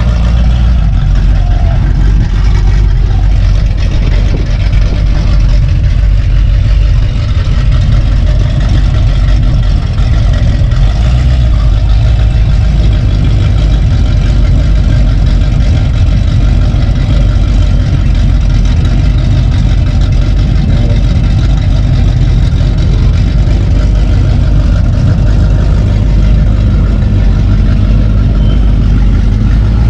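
A vehicle engine running steadily with a heavy low rumble.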